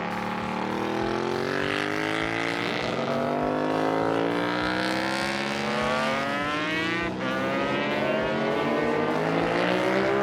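High-revving engine accelerating hard, its pitch climbing steadily for several seconds, with a brief dip about seven seconds in before it climbs again.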